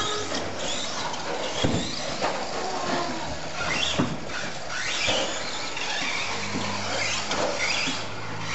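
Radio-controlled stadium trucks racing on a dirt track, their motors whining in repeated rising glides as they accelerate out of corners. A couple of sharp knocks, about a second and a half in and again near four seconds, stand out.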